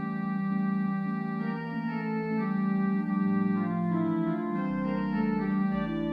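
Organ music: held chords that change every second or so, over a bass line that drops in and out.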